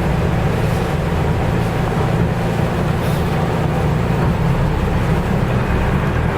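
Nissan Diesel U-UA440LSN city bus's diesel engine running steadily under way, heard from inside the passenger cabin with road noise.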